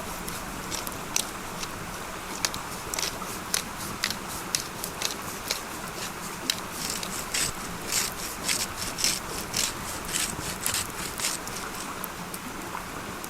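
Steak sizzling in a hot frying pan over a campfire: a steady hiss with many sharp pops and crackles, coming thickest in the middle.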